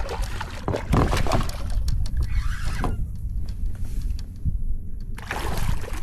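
Water splashing and sloshing around a paddleboard in irregular bursts, most of it in the first three seconds, easing off for a couple of seconds, then picking up again near the end, over a steady low rumble.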